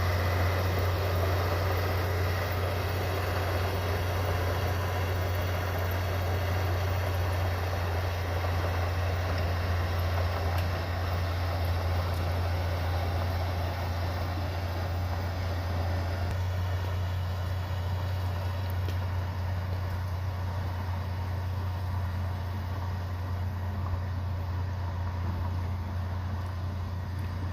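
Heavy diesel earthmoving machinery running steadily: a constant low engine drone with a rougher noise above it, easing a little after the middle.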